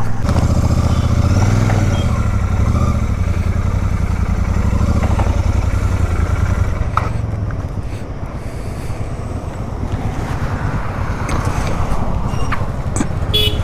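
Royal Enfield Super Meteor 650's parallel-twin engine running steadily. The bike has a noise that the owner suspects comes from something rubbing.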